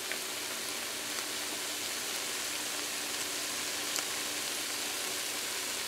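Bora, potato and saltfish sizzling in a frying pan: a steady hiss with a few small pops.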